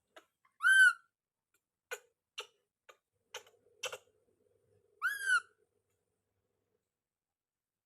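Baby monkey giving two short whistle-like cooing calls about four seconds apart, each rising and then falling in pitch. A few light clicks sound between the calls.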